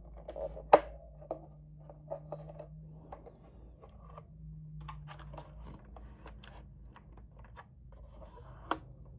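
Hands handling a plastic tenkeyless gaming keyboard: scattered light taps, scrapes and clicks, with a sharp click about a second in and another near the end.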